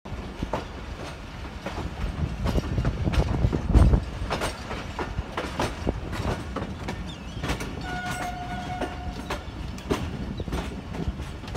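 Pakistan Railways passenger carriages running along the track, heard from an open carriage door: a steady rumble with irregular clacks and knocks of the wheels over the rails, the loudest at about four seconds. A brief steady tone sounds a little after eight seconds.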